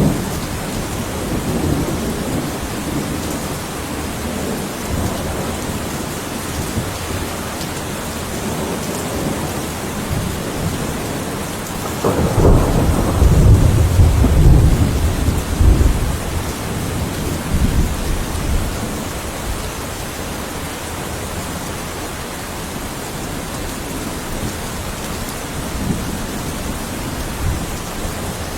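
Heavy rain falling steadily. About twelve seconds in a thunderclap breaks, rolls as a low rumble for several seconds, then fades back under the rain.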